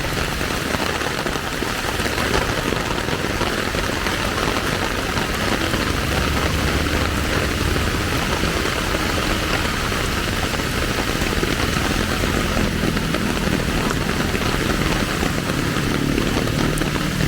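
Steady rain falling, with the low rumble of motor vehicle engines underneath; an engine hum becomes more noticeable in the second half.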